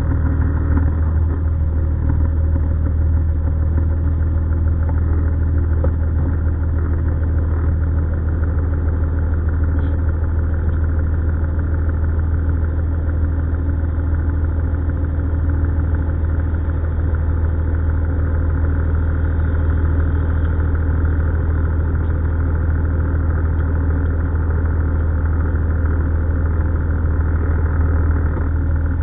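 A vehicle engine idling, a deep steady drone with no change in speed.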